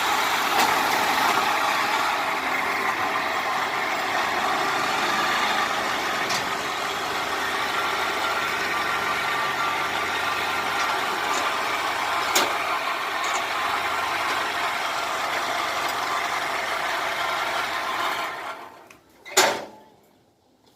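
Diesel engine of a Kubota DC-70 combine harvester running steadily. Near the end it dies away, and a single loud knock follows.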